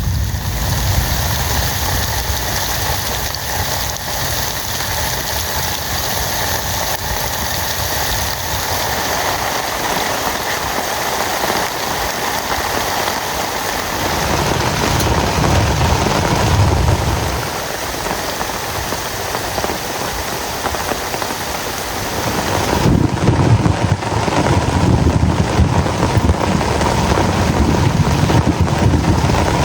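Heavy rain pouring steadily. A low rumble swells in a little past halfway and again from about three quarters of the way through.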